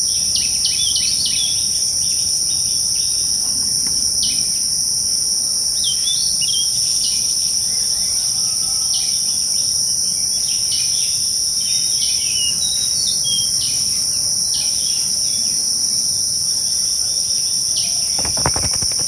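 Forest ambience: a steady, high-pitched insect drone from crickets or similar insects, with short bird chirps scattered through it.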